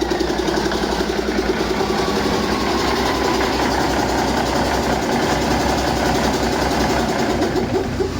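1986 Cummins Big Cam IV inline-six diesel engine running steadily, with a high whine that falls in pitch over the first few seconds as the engine settles toward idle.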